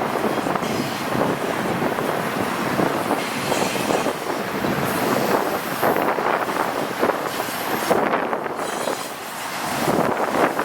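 Freight train cars of a long intermodal train rolling past close by: a steady rush of wheel-on-rail noise with irregular clatter. A faint high wheel squeal comes in about halfway through.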